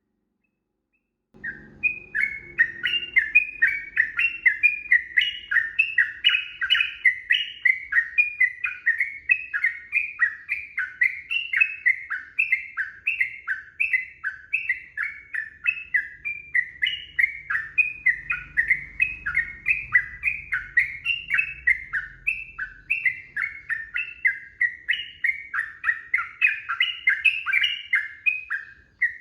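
Yellow-vented bulbul singing a long, unbroken series of short, quick chirping notes, about three to four a second, starting about a second and a half in.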